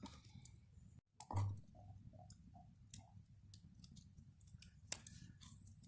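Wood fire crackling with irregular sharp pops. A soft thump comes about a second in.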